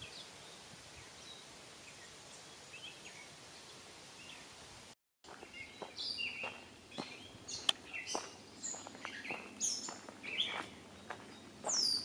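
Songbirds chirping and singing in quick, varied calls, much louder after a brief break about five seconds in, with a few sharp clicks among them. Before the break there is only a faint hiss with a few distant chirps.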